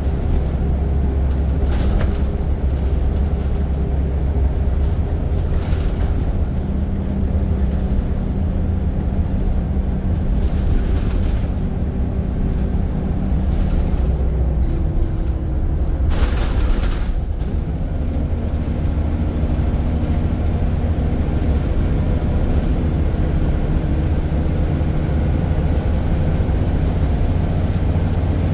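Scania N94 single-decker bus heard from on board, its engine running under way with the engine note shifting pitch twice as it changes speed. Several short hisses cut across it, the longest about two-thirds of the way through.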